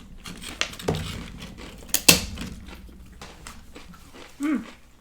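Scattered clicks and clinks of dishes and food being handled at a table, with one sharp knock about two seconds in and a short rising-and-falling pitched sound near the end.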